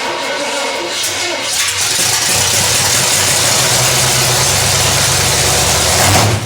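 Chevy small-block 350 V8 running through open upright headers, loud and steady, getting louder and fuller about a second and a half in and dropping off near the end.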